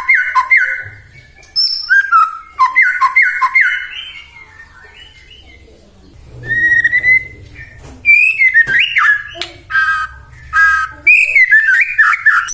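White-rumped shama (murai batu) singing: loud whistled phrases and quick runs of repeated notes, with a short quieter pause about four to six seconds in.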